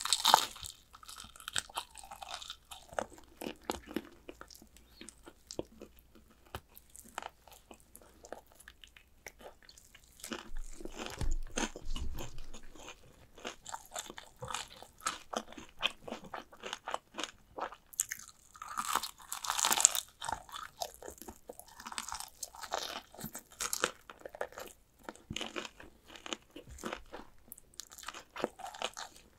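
Close-miked eating of crispy fried chicken drumsticks: repeated crunchy bites into the coating and chewing, with a louder burst of crunching about two-thirds of the way in. A low bump comes about eleven seconds in.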